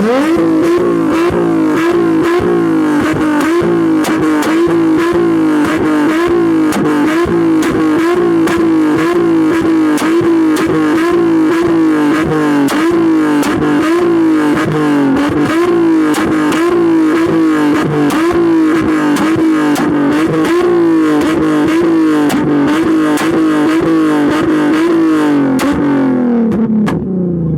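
Car engine revved up and held at a steady high rpm for nearly half a minute, its pitch wavering slightly, with a rapid crackle throughout. The revs fall away near the end as it is let off.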